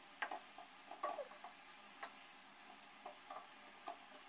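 Pakoras deep-frying in hot oil in a wok as they turn golden brown: a faint steady sizzle with scattered small pops and light scrapes of a wooden spatula moving and lifting them.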